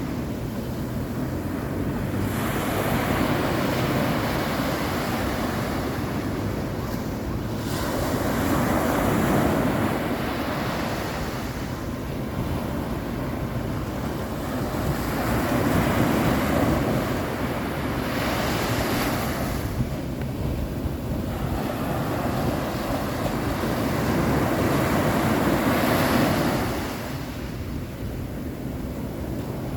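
Sea waves breaking and washing up on the shore, rising and easing about five times, every few seconds.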